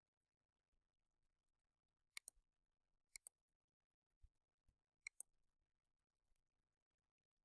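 Faint sharp clicks coming in close pairs, three times, with a couple of soft low thumps between them.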